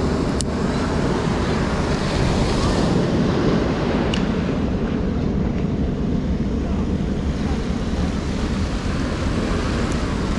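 Ocean surf breaking and washing onto the beach, a steady rush of water noise, with wind on the microphone.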